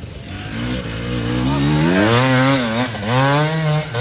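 Off-road race engine revving hard as a competitor rides the motocross track. Its pitch climbs for about two seconds, drops sharply around three seconds in, climbs again, then breaks off near the end, like throttle and gear changes.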